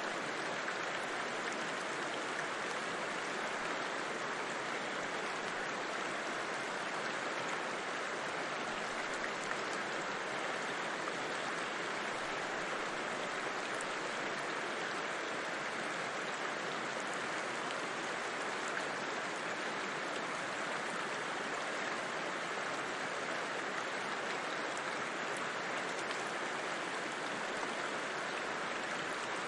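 A river flowing steadily, an even, unbroken wash of water noise with no changes or separate splashes.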